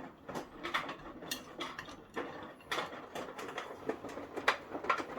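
A run of irregular light clicks and knocks, several a second, with no steady hum underneath.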